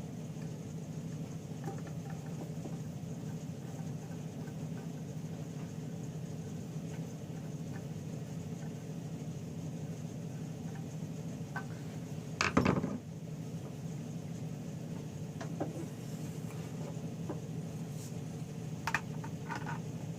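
Hand tools and small metal engine parts handled during small-engine reassembly: scattered light clicks, with one louder clatter about twelve seconds in and a few sharp clicks near the end, over a steady low hum.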